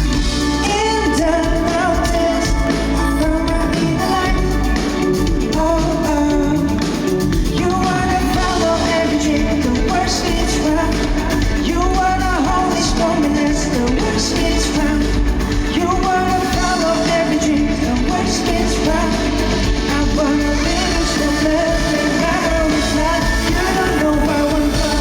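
A live pop-rock band playing a song with a lead singer, heard through the hall's amplification.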